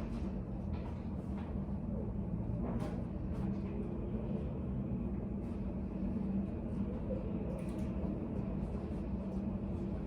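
Study café room ambience: a steady low hum with faint, scattered short clicks and taps.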